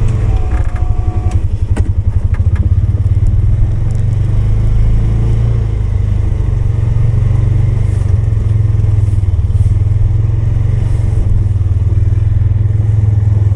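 Polaris 570 ATV engine running steadily while pushing a snowplow, with a few clicks and knocks in the first couple of seconds.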